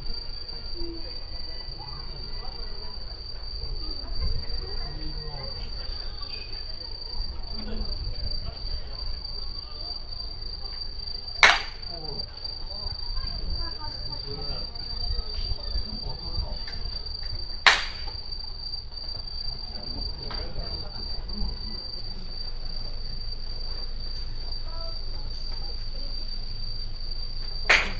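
Crickets singing, a continuous high, steady trill. Three sharp clicks stand out over it, the first about a third of the way in and the last at the very end.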